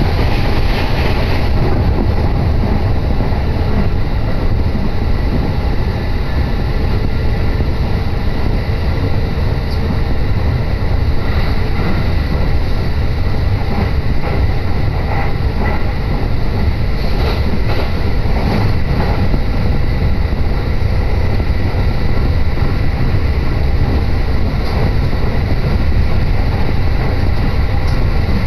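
Inside a moving Joban Line train: a steady low rumble of the train running at speed, with a few faint clicks about two-thirds of the way in.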